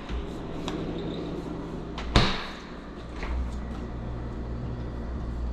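Refrigerator door shutting with a single sharp knock about two seconds in, over a low steady hum.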